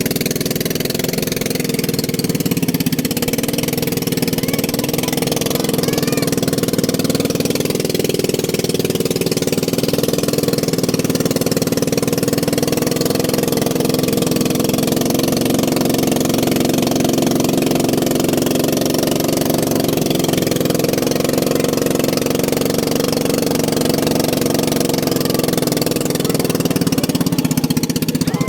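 A vehicle engine running steadily at an even pitch, unchanging throughout.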